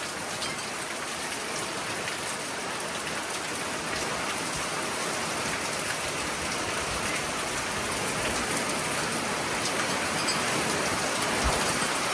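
Heavy rain pouring down in strong, gusting wind: a steady hiss that slowly grows louder.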